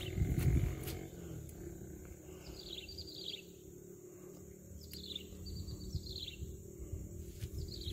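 Birds calling: short runs of high, quick, downward-slurred chirps, repeated several times. There is a dull low rumble in the first second.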